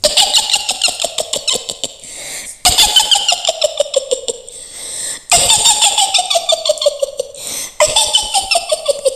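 Mak Lampir's witch cackle: a woman's high, rapid staccato laugh. It comes in four runs one after another, each falling in pitch.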